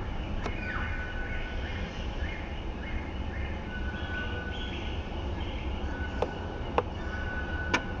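Birds calling with short whistles and chirps, and a few sharp clicks near the end, over a steady low rumble.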